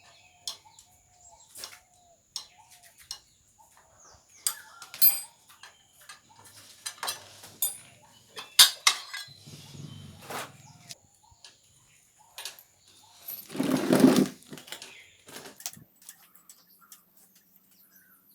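Metal tools and motorbike parts clinking and knocking as they are handled, in scattered single strikes, some with a brief ring, and one louder, longer rattle near the end.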